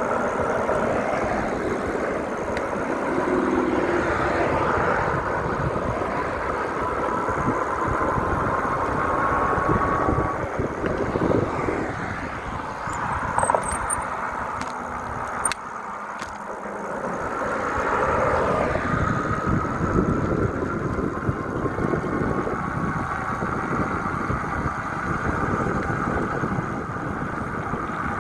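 Wind buffeting the microphone during a bike ride, with a steady rush of road and vehicle noise and faint engine tones that slowly rise and fall in pitch.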